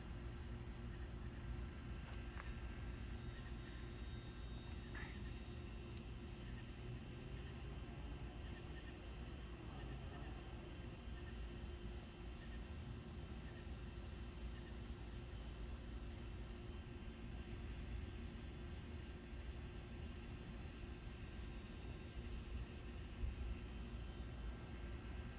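Night insects chirring in one unbroken, high-pitched drone, over a low background hum.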